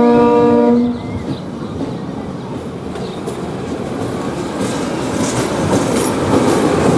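A train horn sounds a steady multi-tone chord that cuts off about a second in, then a train approaches, its running noise slowly growing louder with wheel clicks over the rail joints in the second half.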